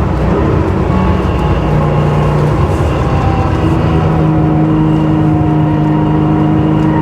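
Air-cooled flat-six engine and exhaust of a 1979 Porsche 911 SC with a 3.2-litre short-stroke conversion, pulling through a corner on a test drive. The engine note is steady, settling into an even pitch about two seconds in and holding it.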